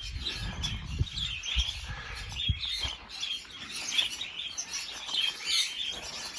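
A flock of budgerigars chattering and chirping continuously, with a few brief low knocks.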